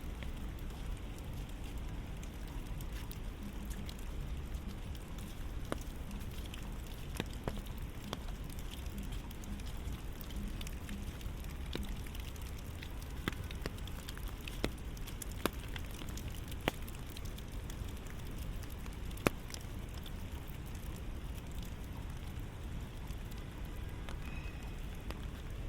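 Steady rain falling, with scattered individual drops ticking sharply close by and a low rumble underneath.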